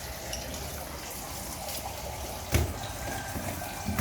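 Steady flow of running water, with one sharp knock about two and a half seconds in.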